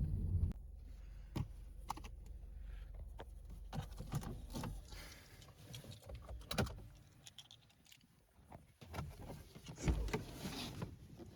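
Car sounds: a low running rumble drops sharply about half a second in and fades out partway through. Over it come scattered clicks and knocks and jangling keys, as of a car being handled and keys being worked, with busier handling noise near the end.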